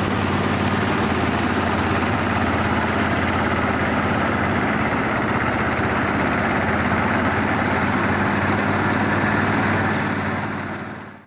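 Engine of rice-harvesting machinery running steadily at a constant speed, then fading out near the end.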